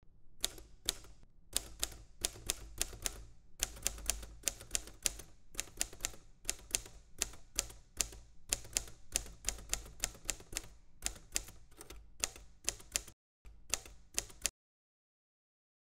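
Typewriter being typed on: a fast, uneven run of key strikes, with a brief break about thirteen seconds in, then stopping abruptly.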